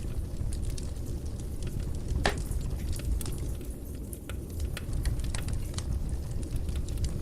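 Fire in a fireplace crackling: scattered sharp pops over a low steady rumble, with one louder pop about two seconds in.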